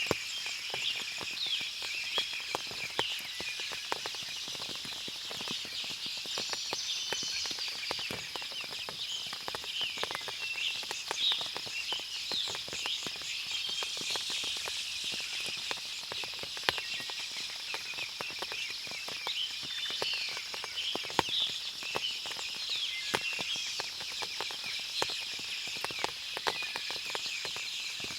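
Forest after rain: many birds chirping and calling in overlapping short notes, over frequent small ticks of water dripping from the trees and a steady high background.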